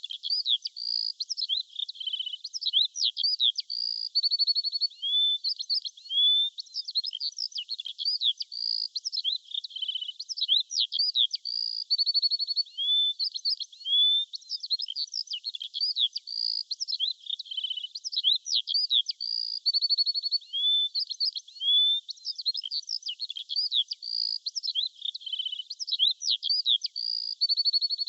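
Birdsong: quick high-pitched chirps, whistled glides and short buzzy trills in a busy, unbroken stream. The same short recording repeats about every seven and a half seconds.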